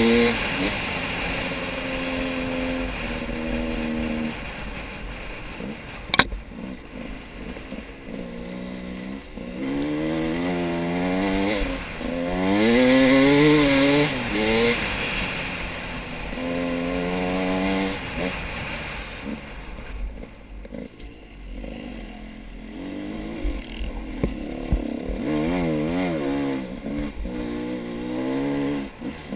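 Motor vehicle engines revving up and down again and again, the pitch rising and falling over a few seconds at a time. A single sharp click about six seconds in.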